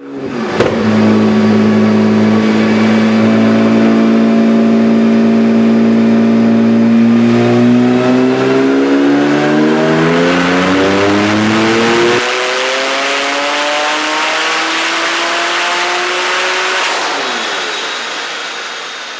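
Porsche 997.1 Turbo's twin-turbocharged 3.6-litre flat-six, fitted with 68mm billet turbochargers, running under load on a chassis dyno. It holds steady revs for several seconds, then climbs in one long rising pull for about ten seconds. Near the end the throttle closes and the revs fall away.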